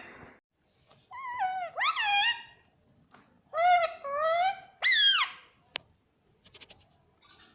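Pet parrot talking: two short bursts of high, bending, speech-like syllables, a second or so apart, followed by a single sharp click and a few faint ticks near the end.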